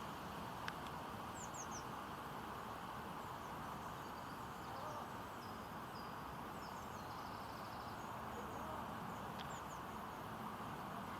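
Steady wind noise with faint, high bird chirps and short trills scattered throughout, and a single sharp click just under a second in.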